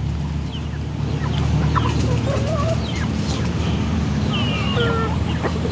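Backyard flock of heritage chickens clucking, with scattered short calls and a wavering call about four seconds in, over a steady low rumble.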